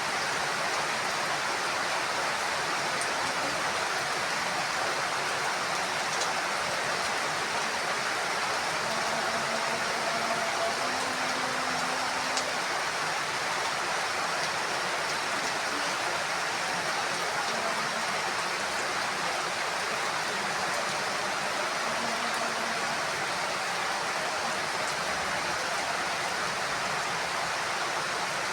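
Heavy rain falling steadily, a constant even hiss with no thunder.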